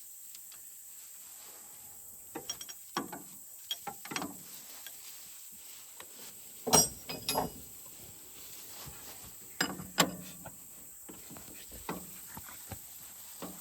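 Wrenches clicking and clanking on the metal fittings of a tractor's air-conditioning lines, in irregular short knocks with the loudest clanks about seven and ten seconds in.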